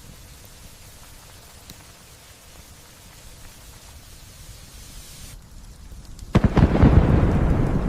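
Light rain falling steadily, then about six seconds in a loud thunderclap breaks with a few sharp cracks and rolls on as a rumble.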